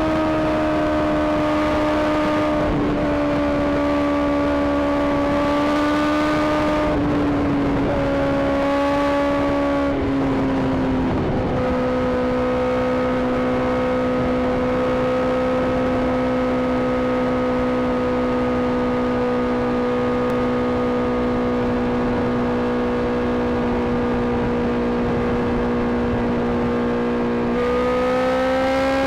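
Sport bike's inline-four engine running at high revs under steady throttle, with wind rushing past. Its pitch dips a little about seven seconds in, drops to a lower steady note about ten seconds in, and climbs again near the end as the throttle opens.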